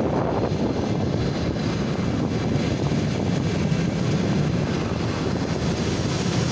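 Steady loud rush of a passenger train running at speed, heard from a window of the moving car: wind and rolling rumble with no clear rhythm.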